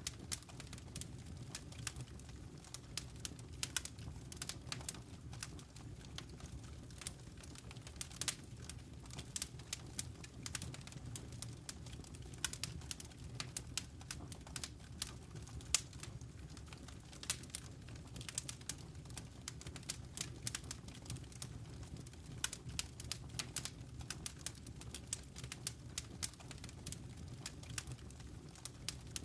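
Wood fire crackling in a fireplace: frequent, irregular sharp snaps and pops over a steady low rumble of burning.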